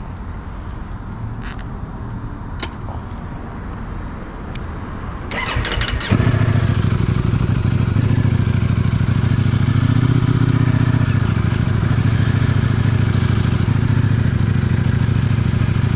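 Ducati V4S motorcycle being started: the electric starter cranks briefly about five seconds in, the V4 engine catches a second later and settles into a steady idle.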